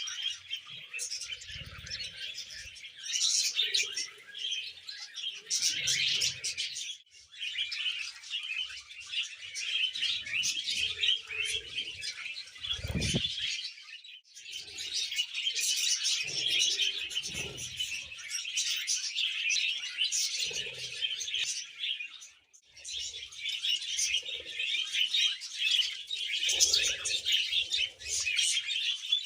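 Budgies warbling and chattering in a fast, continuous stream of chirps and twitters, the contented chatter of happy budgies. There are brief pauses three times, and a soft low thud about halfway through.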